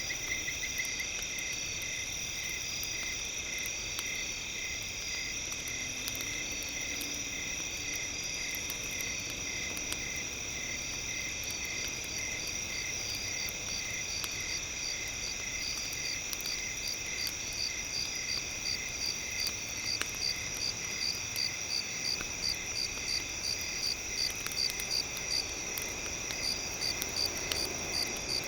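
Night insects trilling steadily, with a cricket chirping in an even pulse about twice a second that gets stronger in the second half, over faint crackles of a campfire.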